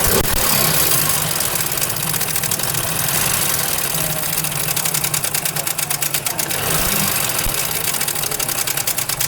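Honda CD70 single-cylinder four-stroke engine running with a loud, fast, even rattling clatter, swelling briefly near the start and again about two-thirds of the way through. The mechanic calls the noise severe and traces it mainly to a timing chain so loose that it slaps against the head and cylinder.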